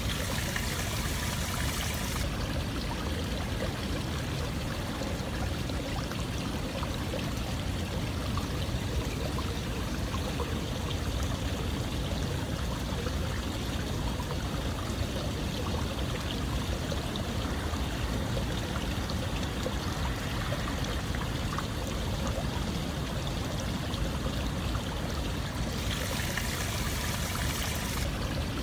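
Steady running water, like a stream or a continuous pour. A brighter hiss joins for about two seconds at the start and again near the end.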